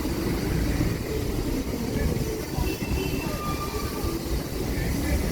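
A train passing: steady rumble of wheels on the rails, with a faint high squeal in the middle.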